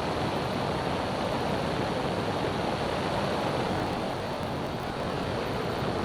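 Steady drone of a small experimental airplane's engine and propeller, heard from inside the cockpit in flight.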